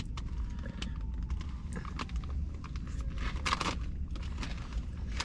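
Someone chewing a mouthful of crunchy Doritos loaded with chicken, with irregular crunches and crackles from the chips and the bag, over a low steady hum.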